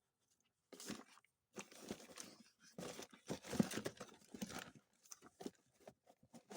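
Rummaging through a box of small engine parts: irregular rustling, crinkling and light clunks as parts and packaging are handled and moved about, starting about a second in.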